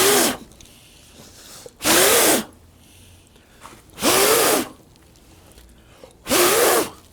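A person blowing hard onto a smouldering campfire to get the wood to catch: four forceful breaths about two seconds apart, each with a short strained hum that rises and falls.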